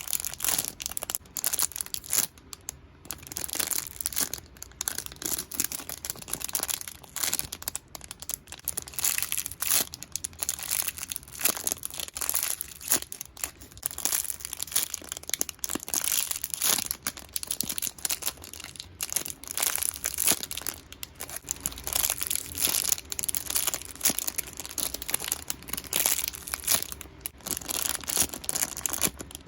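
Plastic packaging of squishy toys crinkling as it is handled, a steady stream of irregular crackles.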